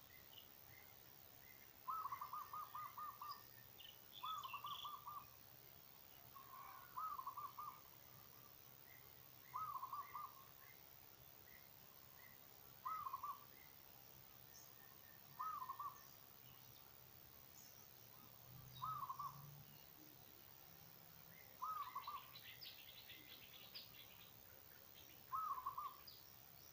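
A bird calling over and over: each call is a short run of quick notes, repeated about every two and a half to three seconds, nine times. Other birds chirp faintly and higher, with a brief burst of high chirping late on.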